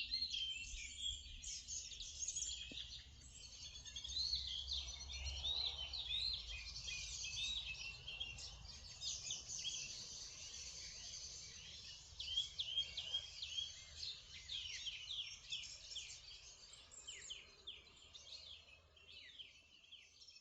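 A morning bird chorus: many small birds singing and chirping at once, overlapping trills and chirps, over a low steady rumble.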